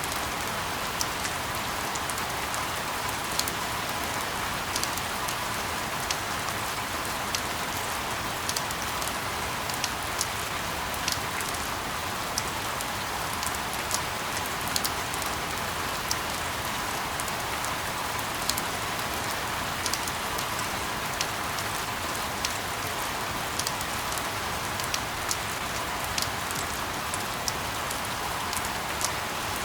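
Steady rain falling: a constant even hiss with scattered sharper drop ticks throughout.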